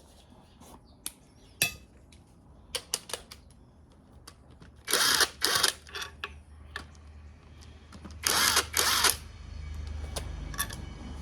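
Power tool run in two pairs of short bursts while parts are unbolted from an engine, after a few sharp clicks of tools on metal. A low hum rises near the end.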